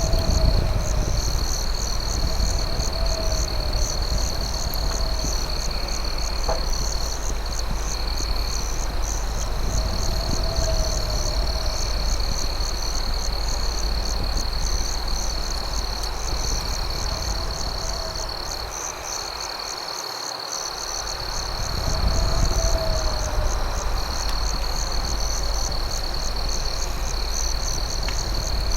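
Night ambience of crickets trilling steadily, a shrill unbroken note with a rapid pulsing chirp above it, over the low rumble and crackle of a campfire with an occasional pop. A lower warbling call repeats every two to three seconds, and the low rumble drops away briefly about two-thirds of the way through before coming back.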